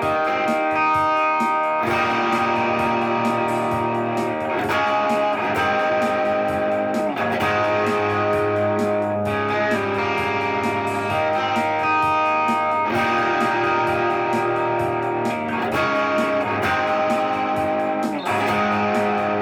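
Guitar playing a song: ringing, sustained chords that change every two to three seconds.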